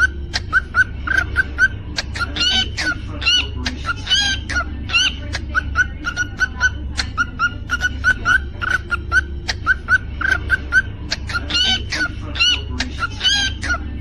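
Cockatiel chirping in a quick, steady run of short notes, several a second, broken in two spells by louder calls that rise in pitch. A steady low hum runs underneath.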